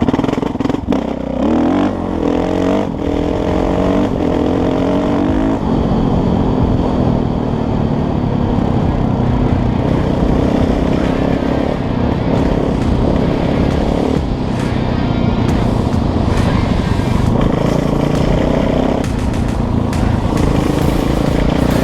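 Kawasaki KX450 dirt bike's single-cylinder four-stroke engine pulling away, rising in pitch in several steps through the first few seconds, then running steadily at speed.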